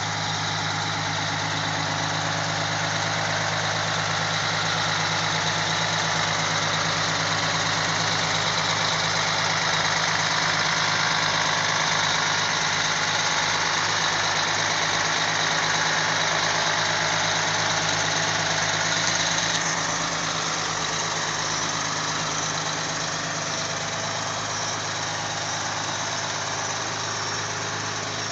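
Fire engine's diesel engine idling steadily, with a slight drop in level about twenty seconds in.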